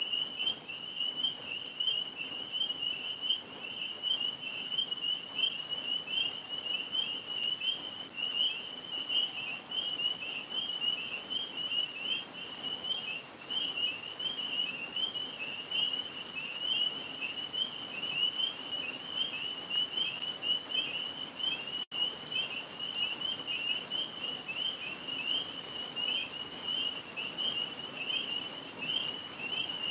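A chorus of tree frogs calling: a dense, unbroken high-pitched trilling that never pauses, over a faint steady hiss. The sound cuts out for an instant about 22 seconds in.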